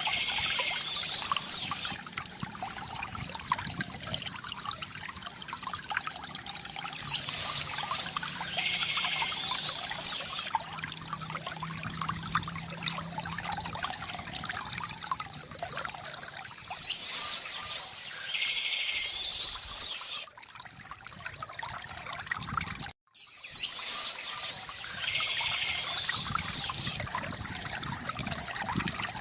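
Stream water trickling and splashing steadily, with a songbird singing in short bouts that recur every eight or nine seconds. The sound drops out briefly about three-quarters of the way through.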